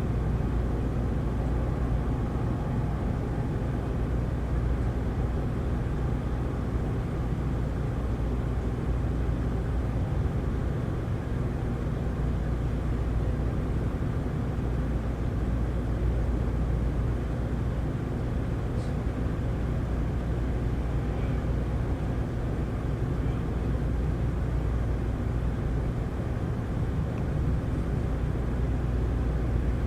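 Heavy rain falling, a steady, even noise with most of its weight low down.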